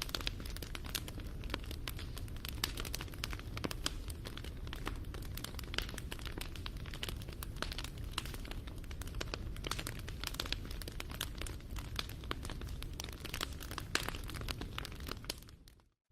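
Campfire crackling and popping, with many sharp snaps over a low steady rumble of the flames. The sound fades to silence for a moment just before the end.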